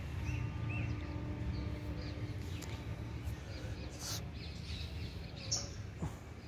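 Small birds chirping outdoors: a run of short repeated chirps early on, then scattered calls, over a low steady background noise.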